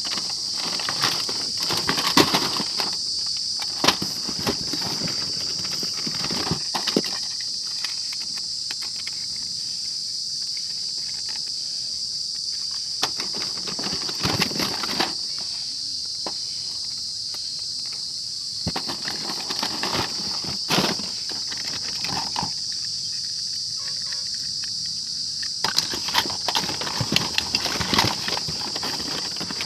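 Plastic toy vehicles clicking and knocking against a hard surface in bursts, with quieter gaps between, over a steady high hiss.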